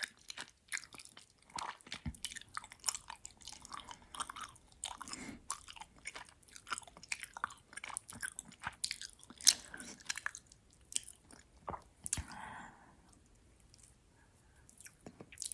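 Close-miked chewing of gummy worm candy: wet, sticky smacks and clicks of the mouth working the chewy gummies, thinning to a short lull about two-thirds of the way through.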